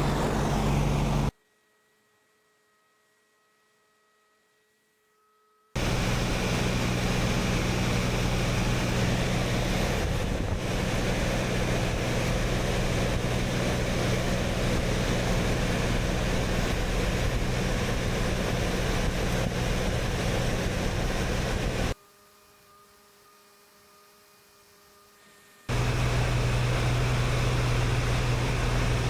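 Steady drone of a small sightseeing plane's engine and propeller heard inside the cabin, with a strong low hum. It cuts out abruptly twice, about a second in and again near the end, leaving only a faint hum for a few seconds each time.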